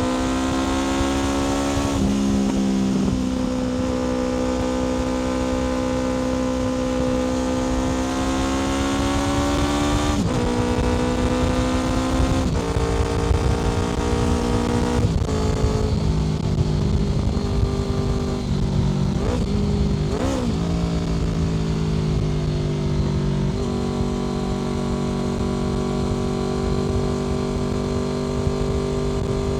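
Honda VFR800 FI's V4 engine through an aftermarket Black Widow exhaust, running at a steady cruise. The engine note changes in steps several times past the middle, with a couple of short dips and rises before settling to a steady note near the end.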